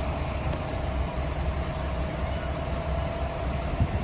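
Steady low rumble of an approaching Amtrak passenger train still out of sight, with a constant faint hum over it.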